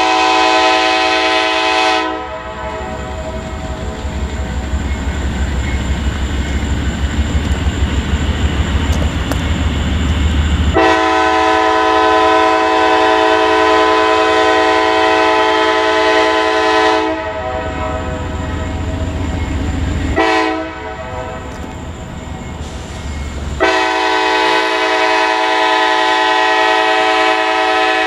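Freight locomotive's multi-chime air horn sounding the grade-crossing pattern: long, long, short, long. Between the blasts the train rumbles by with a quick, even low beat.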